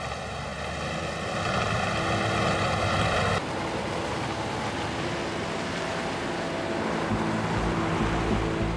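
Engine of a vintage open-top touring car running as it drives along, a steady drone over road noise. The sound changes abruptly about three and a half seconds in.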